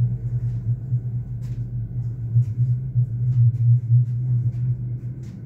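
Cabin noise inside a Merseyrail Class 777 electric train on the move: a steady low rumble from the running train, with a few faint, irregular clicks.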